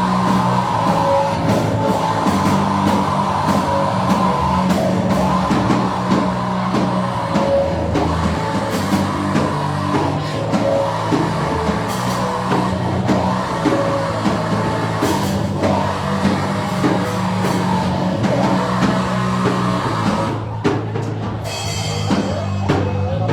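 Band music with a drum kit keeping a steady beat over sustained bass notes, its texture changing near the end.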